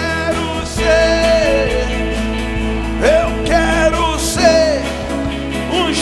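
Live worship band music: sustained chords over a steady bass, with short bending melodic phrases from a lead voice or instrument between sung lines.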